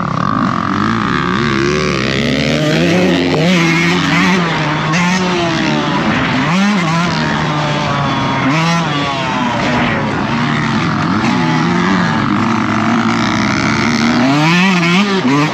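Dirt bike engine revving up and dropping back over and over as it is ridden around a motocross track, the pitch climbing and falling every second or two through throttle and gear changes.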